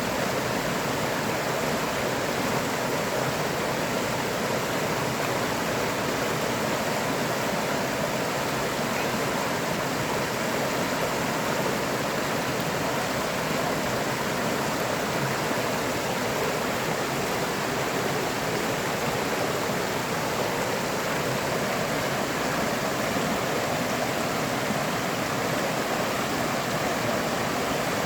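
A river flowing, an even, steady rushing of water that holds the same level throughout.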